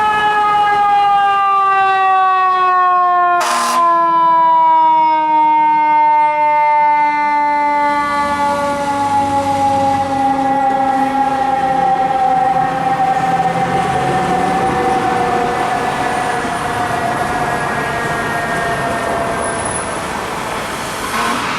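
A siren winding down: one long tone falling slowly and steadily in pitch. There is a sharp click about three and a half seconds in.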